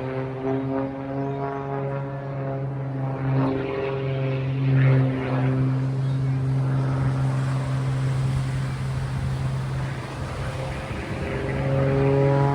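Propeller airplane engine running as the aircraft flies past, its steady tone shifting slightly in pitch. It is loudest about five seconds in and swells again near the end.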